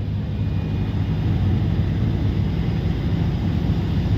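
Heavily loaded truck's diesel engine running steadily under load while climbing a steep mountain pass, a low, even rumble.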